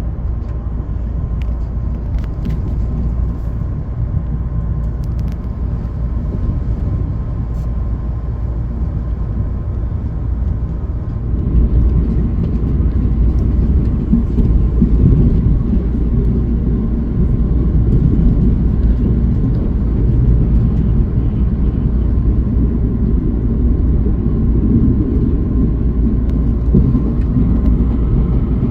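Electric commuter train running, heard from on board: a steady low rumble that grows louder about eleven seconds in, with a faint steady high tone above it.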